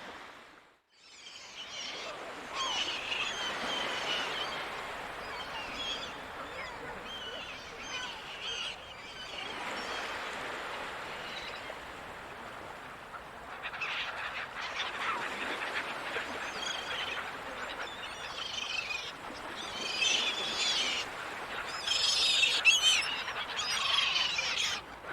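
A flock of seagulls calling over a steady wash of ocean surf, with the calls growing louder and busier toward the end. A brief drop-out about a second in.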